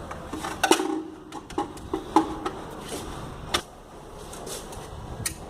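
Several separate knocks and clicks, six or so spread over a few seconds, from parts and tools being handled during the fitting of a pool counter-current unit.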